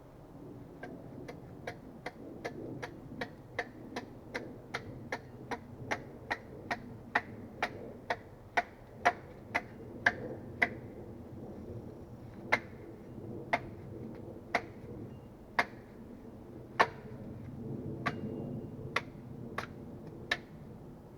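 Axe chopping wood: a quick run of sharp, even strokes about three a second, then slower single blows about a second apart from about halfway through.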